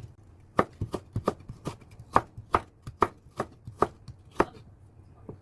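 Kitchen knife cutting burdock root into thin strips on a cutting board: a dozen or so sharp knocks at about three a second, stopping near the end.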